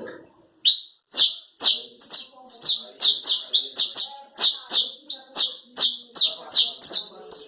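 A man imitating the song of a saffron finch (canário-da-terra) by mouth: a quick run of sharp, high chirps, each dropping in pitch, about three a second, starting under a second in.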